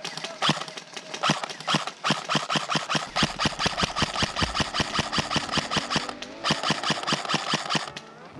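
Airsoft gun firing a rapid string of shots, several a second, with a short pause about six seconds in; the shooting stops just before the end.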